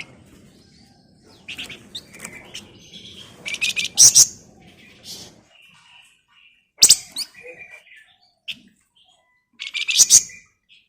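Flamboyan songbird singing in short, rapid, buzzy chattering bursts (the 'ngebren' and 'nyerecet' rattles), with softer chirps between them. The loudest bursts come about four, seven and ten seconds in.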